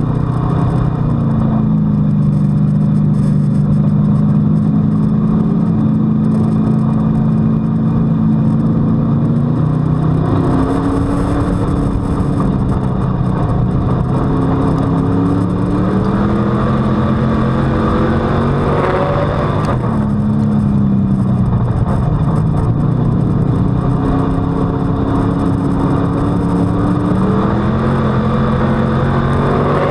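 A WISSOTA street stock race car's V8 engine, heard from on board. It holds a steady pitch at first, then about ten seconds in it starts revving up and easing off every few seconds, under constant loud wind and rumble.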